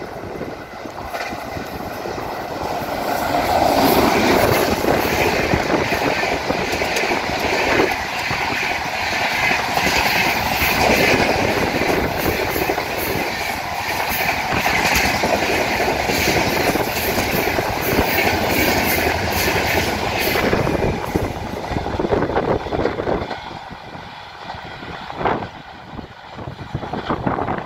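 Express train hauled by a WAP-7 electric locomotive running through at speed without sounding its horn. The noise builds over the first few seconds as it arrives, stays loud for about 17 seconds as the long rake of sleeper coaches passes, then fades as the train draws away.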